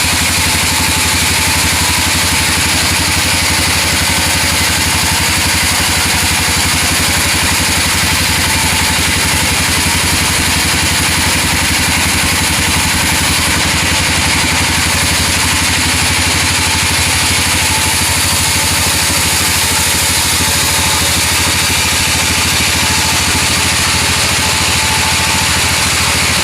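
Engine-driven sawmill running steadily at a constant pitch and level, with no breaks.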